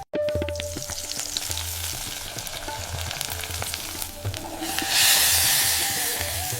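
Food frying and sizzling in a cooking pot, with many small crackling pops. The sizzle swells to a loud hiss about five seconds in.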